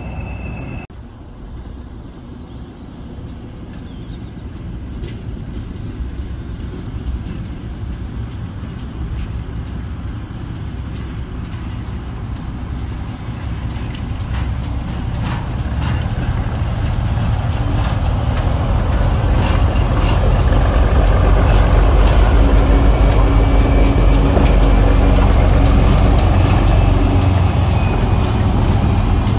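Passenger train hauled by a green diesel locomotive and a pannier tank steam locomotive approaching and passing close by. The rumble of engine and wheels on rails grows steadily louder and is loudest in the second half, with a steady diesel engine hum near the end.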